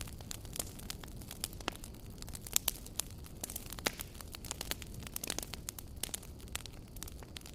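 Wood fire burning with a low rumble and irregular sharp crackles and pops of burning logs.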